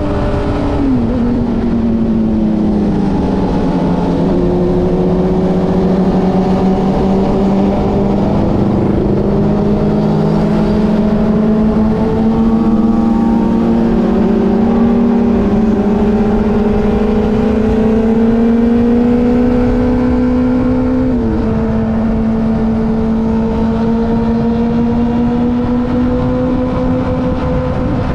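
Sport motorcycle engine running under way, its pitch slowly rising and falling with the throttle, with a sudden drop in pitch about a second in and again about three quarters of the way through.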